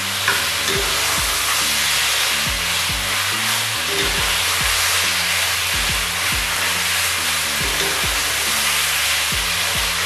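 Chicken pieces sizzling in hot oil in a wok, stirred with a spatula, a steady frying hiss. Background music with a steady beat plays under it.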